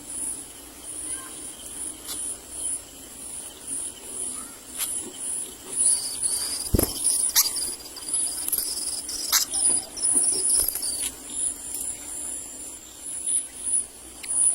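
Insects trilling in high, regularly pulsing bursts, with a second steady high buzz joining from about six to eleven seconds in, and scattered sharp clicks.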